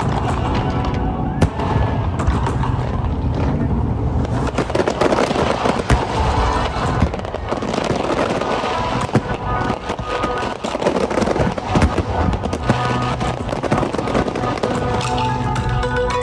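Fireworks bursting and crackling in quick, dense succession, over loud background music.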